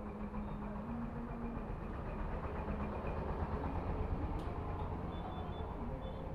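Steady low mechanical rumble, like an engine or motor running, with a faint steady hum over it.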